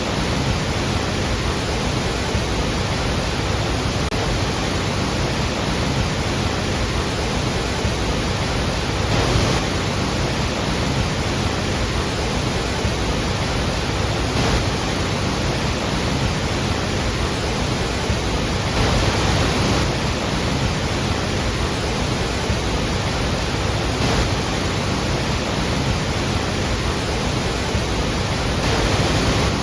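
Iguazú Falls: the steady, dense rush of a large waterfall, with brief slight swells now and then.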